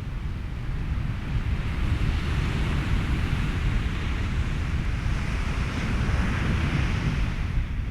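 Ocean surf and wind over a steady rumble of white noise, with a wave washing in and swelling over several seconds before easing off near the end.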